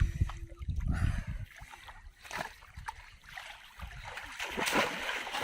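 Shallow river water splashing in a few short bursts, busiest near the end, with a low rumble in the first second.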